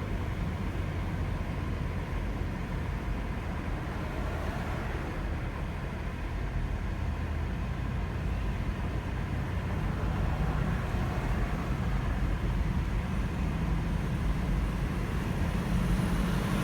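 Steady vehicle and traffic noise: a continuous low rumble with a hiss of road noise, growing slightly louder toward the end.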